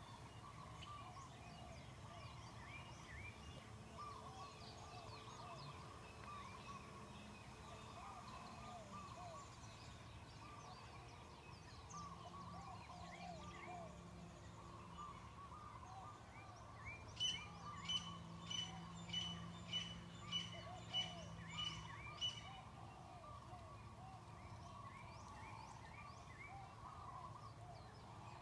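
Many birds chirping and twittering faintly. About two-thirds of the way in, one louder, sharp call repeats about nine times, roughly two a second, then stops.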